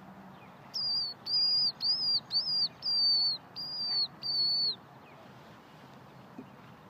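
A bird calling: a run of about eight loud, high, clear whistled notes, each slightly arched in pitch, ending near the five-second mark.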